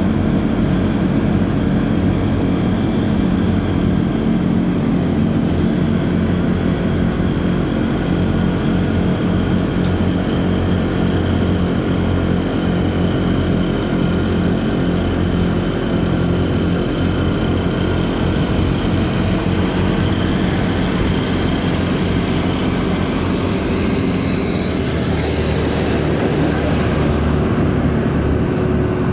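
Motorcycle engine running steadily amid city road traffic. A high hiss builds from about halfway and fades shortly before the end.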